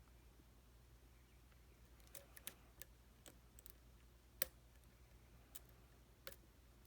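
Faint, scattered clicks of a lock pick and tension wrench working the pins of a challenge lock, starting about two seconds in, with one sharper click a little past the middle. The pins are setting as the lock goes into a deeper false set.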